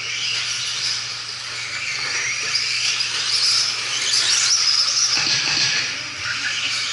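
Several 2WD RC stadium trucks racing: a high-pitched motor whine whose pitch rises and falls, mixed with tyre and track noise.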